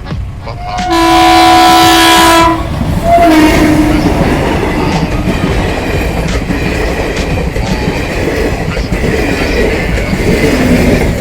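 A train's horn sounds one long steady blast about a second in, with a brief short toot just after. Then comes the continuous rumble and clatter of the train running over the rails.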